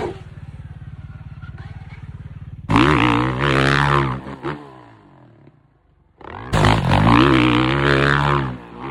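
Dirt bike engine running steadily at a low, fast pulse, then revving hard twice, about three seconds apart. Each burst of revs rises and falls in pitch for a second or two before dying away.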